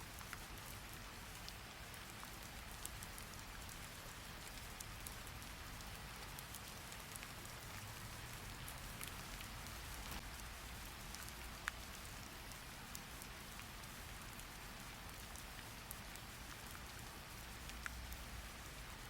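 Steady rain falling, with scattered sharp ticks of drops through it, the loudest one about halfway through.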